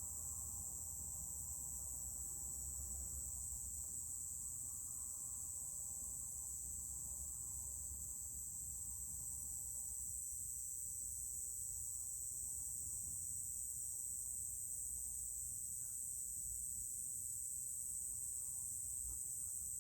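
Steady high-pitched insect chorus, an unbroken trilling with no pauses, over a faint low rumble.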